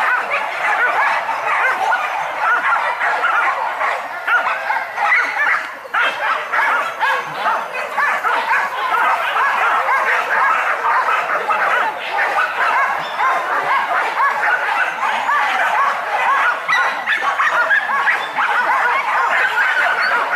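A pack of hunting dogs barking and yelping over one another without a pause.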